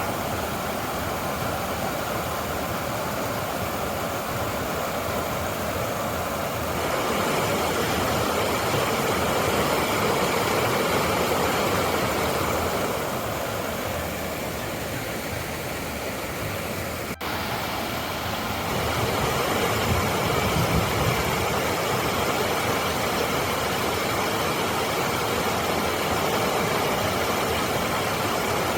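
Waterfall on a river: a steady, even rush of falling water. It grows louder or softer at a few points, with a brief break about 17 seconds in.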